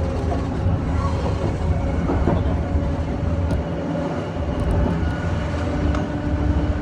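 Rail car running along the track, heard as a steady low rumble with a constant humming tone over it.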